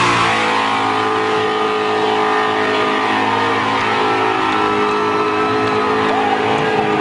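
Holden Torana's engine held at high revs during a powerskid, its pitch dipping briefly at the start and then holding steady.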